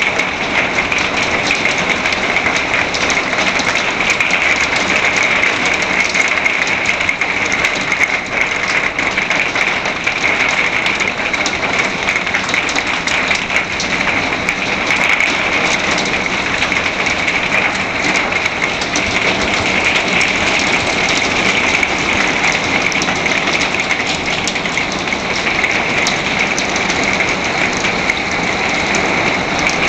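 Heavy rain and hail coming down hard in a hailstorm: a loud, steady hiss thick with rapid sharp ticks of impacts.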